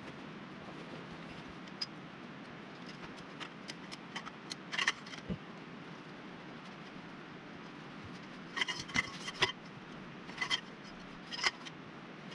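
Scattered light clicks and small metallic clinks, some in quick clusters, over a steady hiss.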